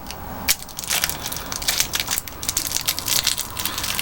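Crunching and chewing of Zombie Skittles close to the microphone: a dense run of crackling clicks as the candy shells break.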